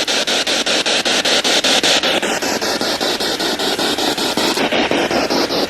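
Spirit box sweeping through radio frequencies: a steady hiss of static chopped rapidly and evenly as it scans, with two falling whistles about two seconds in and again near the end.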